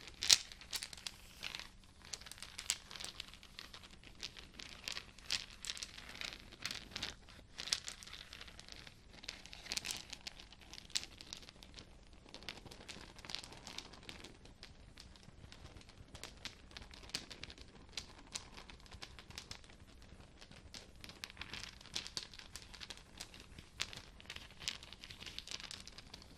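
Close-up crinkling and crackling of something being handled, a dense run of irregular sharp crackles.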